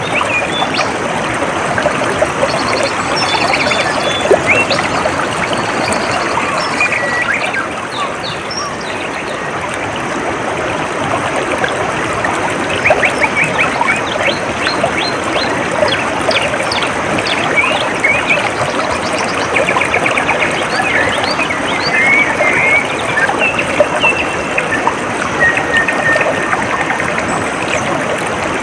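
Water trickling and flowing steadily, like a small stream, with birds chirping and giving quick trills over it throughout.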